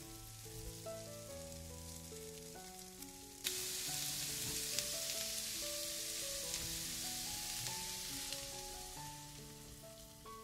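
Sliced carrots and onion sizzling in oil in a frying pan. The sizzle comes in suddenly about a third of the way in and eases off toward the end, over soft background music.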